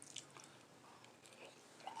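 Faint close-up chewing of soft lime-flavoured ice, with a few small crunches and mouth clicks in the first half second, then quieter.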